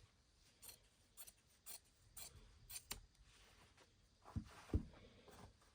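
Faint rustling and small clicks of fabric being handled, with two soft thumps a little past four seconds in.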